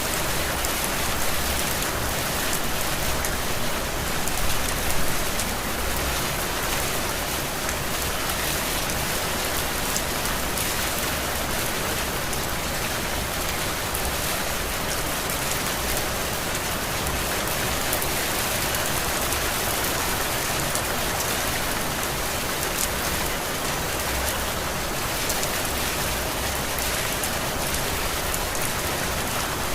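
Heavy rain falling steadily, an even dense hiss of drops with a slight swell about four to five seconds in.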